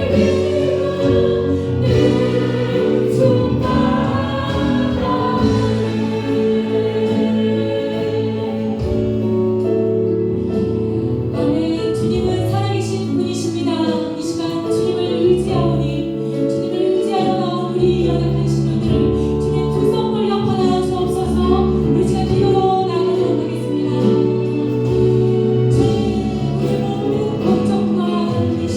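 Worship praise band and singers performing a Christian praise song, voices held over sustained chords, with drum and cymbal strikes coming in about ten seconds in.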